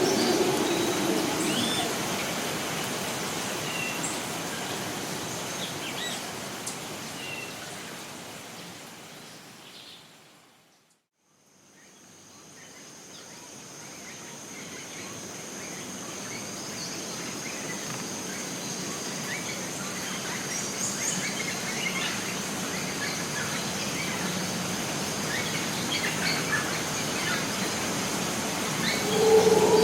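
Costa Rican rainforest ambience: a steady wash of noise with many short bird chirps and calls. About a third of the way in it fades smoothly down to near silence and then fades back up, after which a steady high whine runs under the birds.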